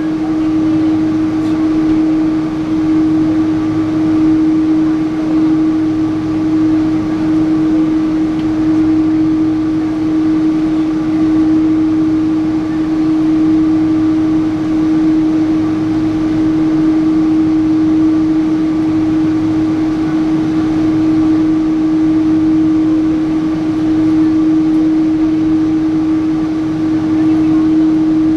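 Boeing 777-300 airliner cabin noise: steady engine and airflow drone with a strong constant hum and a fainter, higher steady tone, heard from inside the passenger cabin.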